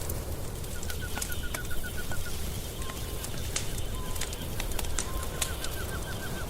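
Wood fire crackling with frequent sharp pops over a steady low rumble. Mixed in is a bird giving a fast trill of quick repeated notes, once about a second in and again near the end, with a few short single notes between.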